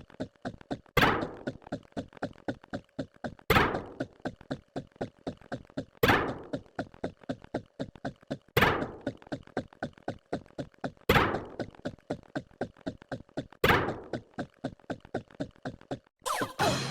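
A repeating sound effect: a sharp thunk about every two and a half seconds, each followed by a fading run of quick ticks. A different, denser burst comes in near the end.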